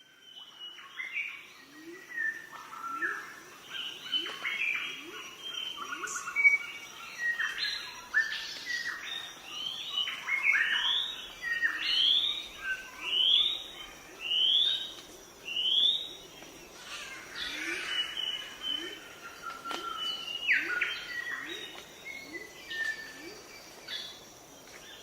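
Several wild birds calling and singing at once, with one bird repeating a short rising whistled note about once a second for a stretch midway through. A steady high-pitched tone sits underneath.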